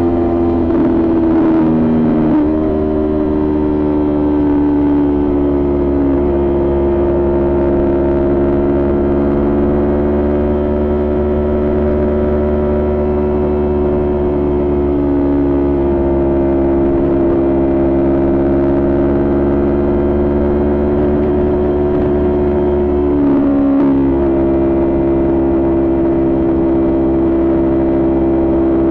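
Kawasaki Ninja 400's parallel-twin engine with a Coffman exhaust, held at a steady cruising speed with an even note. Its pitch steps down about two seconds in and dips briefly once more near the end.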